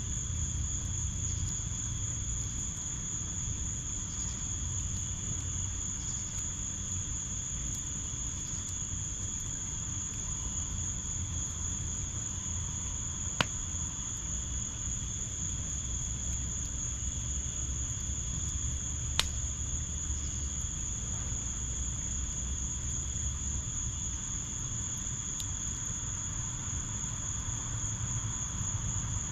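Crickets trilling in a steady, unbroken high-pitched chorus over a low rumble, with two sharp pops from the burning fire pit, about 13 and 19 seconds in.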